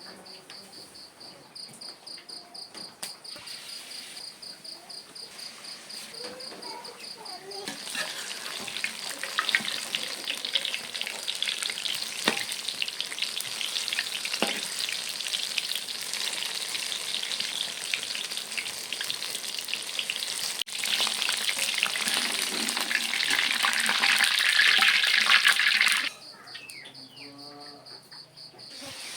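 Crickets chirping steadily for the first several seconds. Then bananas (pisang goreng) frying in hot oil take over: a dense sizzle and crackle that grows louder and cuts off suddenly near the end, after which the crickets are heard again.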